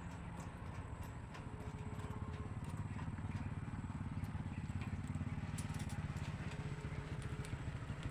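Small engine running with a fast, even firing rhythm, picking up slightly about a second and a half in.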